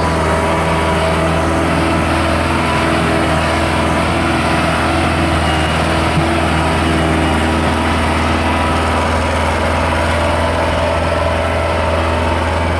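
Massey Ferguson 385 tractor's diesel engine running steadily at a constant speed, with a strong low hum.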